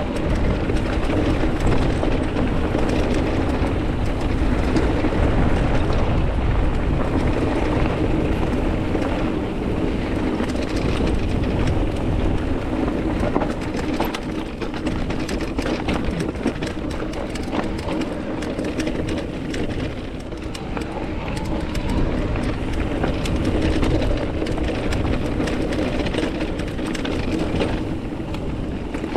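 Mountain bike riding noise: tyres rolling over dirt and rock, with frequent clicks and knocks from the bike over rough ground, and wind on the microphone.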